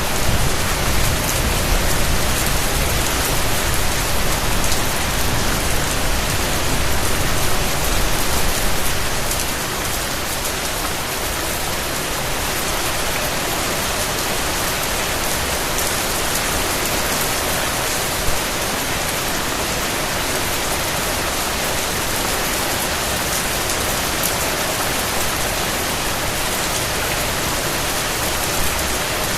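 Steady rain falling, a dense even hiss of drops on surfaces. A low rumble sits under it for the first nine seconds or so, then dies away.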